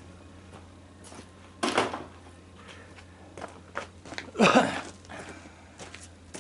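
Scrap parts and wire being handled and set aside: two short clattering knocks, one about two seconds in and a louder one past the middle, with small clicks and rustles between.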